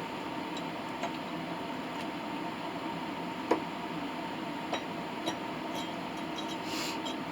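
Steady electrical hum with a few light clicks and clinks scattered through it, the clearest about halfway.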